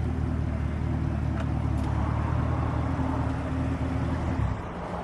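Car engine running with a steady low hum, which cuts off suddenly about four and a half seconds in.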